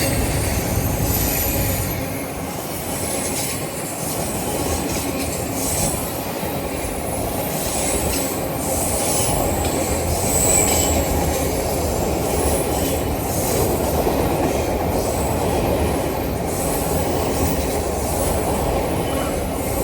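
A train passing close by: the steady rumble of wheels running on the rails, with a brief high wheel squeal about halfway through.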